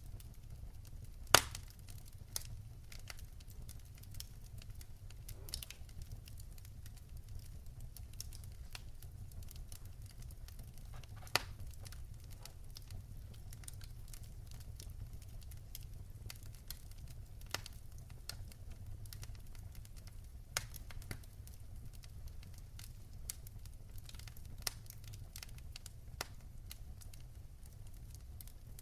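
Wood fire burning in a fireplace, crackling with irregular sharp pops over a steady low rumble. The loudest pop comes about a second and a half in.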